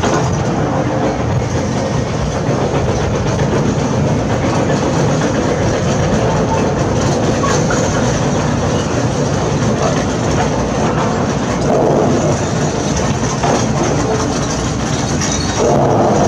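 Heavy construction machinery working: a diesel engine running under a steady, dense clatter of rattling and knocking metal.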